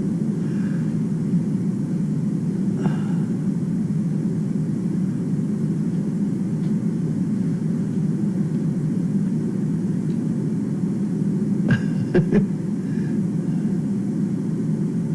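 Steady low rumble, with a few brief clicks about twelve seconds in.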